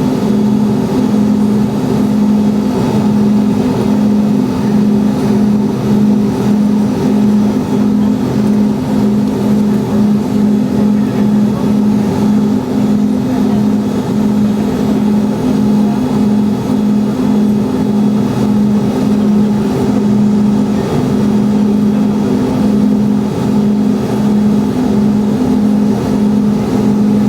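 Boeing 717's rear-mounted Rolls-Royce BR715 engines at idle, heard inside the cabin: a loud, steady drone with a low hum that pulses evenly.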